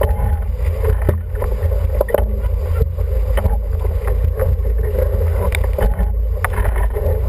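Wind buffeting the microphone and water rushing past the hull of an International 14 racing dinghy under sail, with scattered sharp knocks and splashes.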